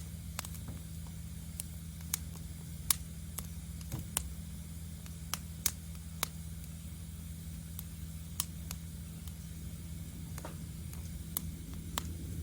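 Wood fire crackling, with about a dozen sharp, irregular pops over a steady low rumble.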